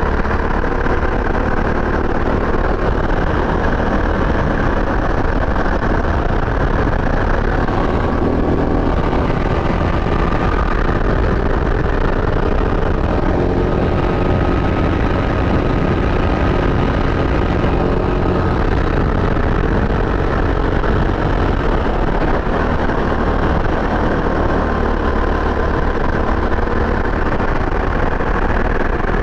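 CRG Centurion 270 rental kart's engine running hard through a lap, heard on board, its note rising and falling with the throttle through corners and straights.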